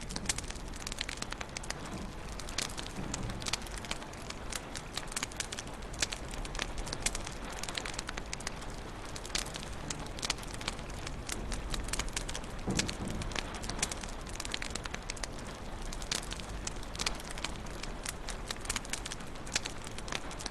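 Wood fire crackling in a fireplace: a dense run of irregular sharp pops and snaps over a steady hiss.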